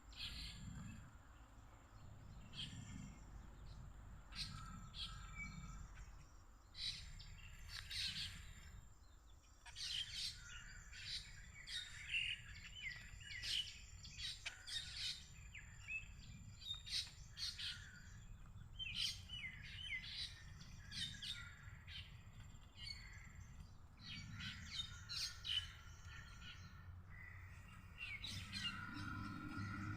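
Small birds chirping, many short calls coming in clusters throughout.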